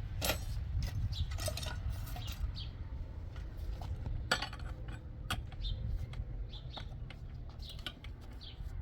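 Scattered clinks and knocks of hard objects being handled, over a steady low rumble.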